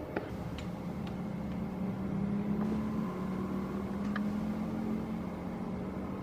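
Airliner engines droning steadily as a plane passes on its landing or take-off, with a low hum that grows slightly louder through the middle. A few faint sharp clicks sound near the start and about four seconds in.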